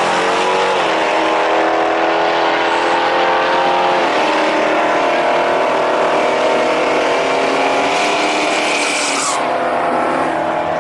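Drag racing engines at full throttle during a pass down the strip. Their pitch steps up about half a second in and again about four seconds in, then holds steady.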